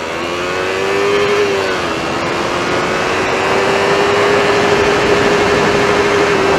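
Yamaha MT-03 motorcycle engine with the exhaust end-can removed, pulling under acceleration. The revs climb, dip once at a gear change about two seconds in, then hold and slowly rise again, over a steady rush of noise.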